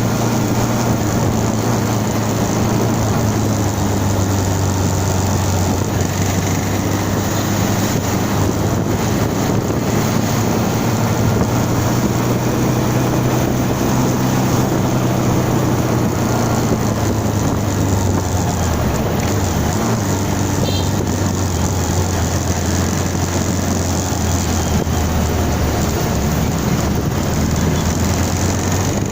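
Motorcycle engine running at a steady cruise while riding, its pitch drifting slowly up and down, under a constant rush of wind.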